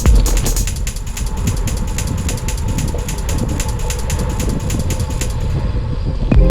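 Road bike's rear freehub ticking rapidly and evenly while the rider coasts, over a steady low rumble.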